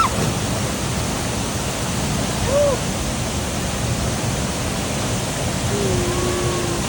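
Steady rushing of a waterfall pouring into its pool: an even, unbroken roar of falling water.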